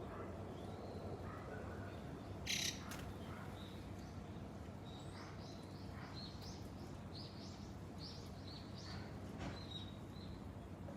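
Birds chirping: a run of short, high chirps through the middle and latter part, over a steady low background hum. There is one brief loud rustle-like burst about two and a half seconds in.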